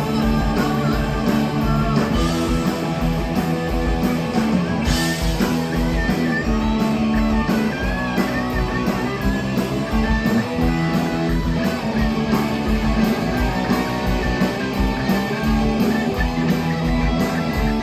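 Live rock band playing loud, with electric guitars and a steady drum beat and no vocals.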